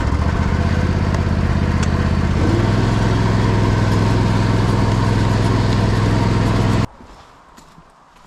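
Engine running at a steady speed, stepping up in pitch about two and a half seconds in, then stopping suddenly near the end.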